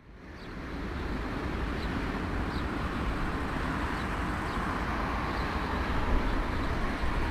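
Steady low rumble and rushing noise of a moving vehicle, fading in over the first second and then holding even.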